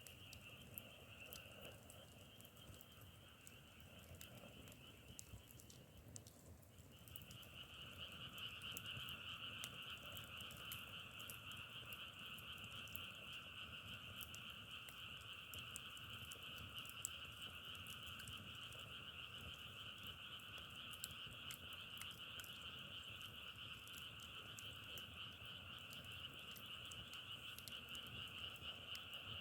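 A chorus of frogs trilling steadily. It falls silent about six seconds in and starts again a second later, louder. Faint scattered crackles, as of burning firewood, are heard behind it.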